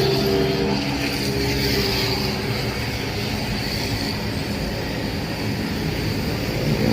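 Steady street traffic noise: motor vehicles running and passing, with a low engine hum.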